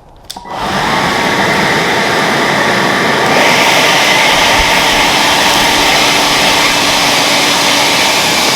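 Craftsman cordless electric leaf blower switching on about half a second in and blowing a steady rush of air through a clogged dryer vent duct to clear out lint. It gets louder about three seconds in and then holds steady.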